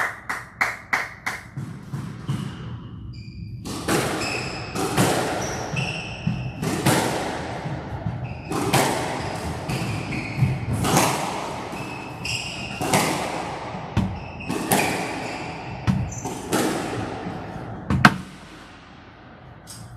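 A squash rally: the rubber ball is struck by the rackets and smacks the walls about once a second, each hit echoing in the enclosed court, with shoe squeaks on the court floor between hits. The rally ends with one very sharp, loud hit near the end, which the referee calls out. A quick run of sharp taps comes in the first two seconds.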